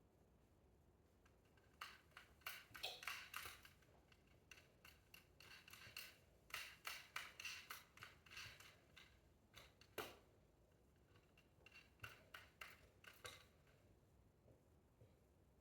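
Faint, quick clicking and rattling in three short bursts, with a single sharper click in between, over near silence.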